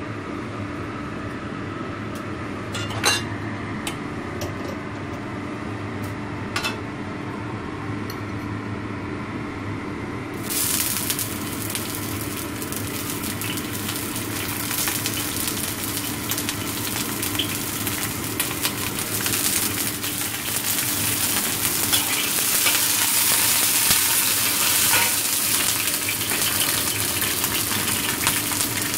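A steady hum with a few sharp clanks while oil heats in a wok; about ten seconds in, sizzling starts suddenly as sliced ginger, garlic and spring onion go into the hot oil. The sizzle grows louder as a metal spatula stirs the aromatics.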